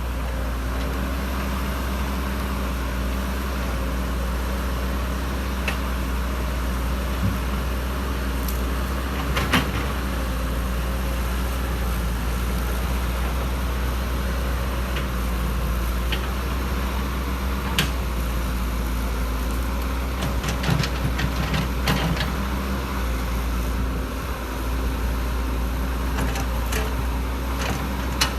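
Excavator's diesel engine running steadily under load, with scattered sharp knocks and clanks from the digging, a cluster of them about two-thirds of the way in and a few more near the end.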